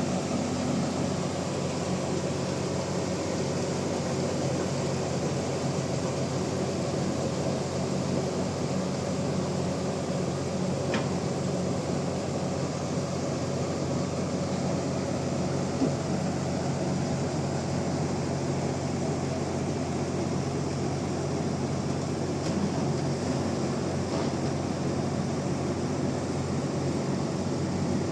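Band sawmill running steadily, a constant machine hum with no change in pitch, with a brief tick about a third of the way in.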